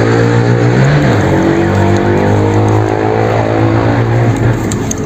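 A motor vehicle's engine running steadily with a deep, even hum, its pitch rising and falling briefly about a second in, then fading out near the end.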